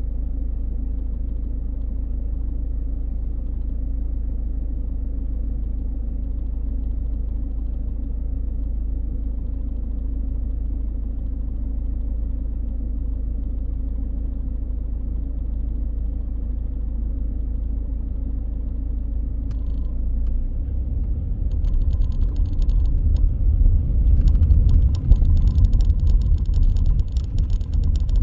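Car driving through city streets: a steady low road-and-engine rumble that turns louder and rougher about two-thirds of the way through, with added crackling and rattling noise over it.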